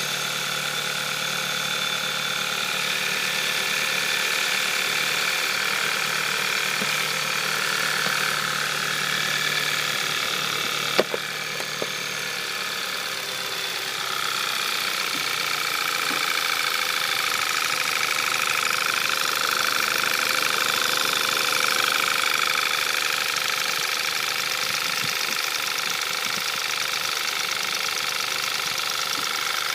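Volkswagen Scirocco's 2.0 TSI turbocharged four-cylinder petrol engine idling cold, with the ticking rattle the owner is unsure is normal. One sharp click about eleven seconds in, and a low hum under the idle drops away a moment later.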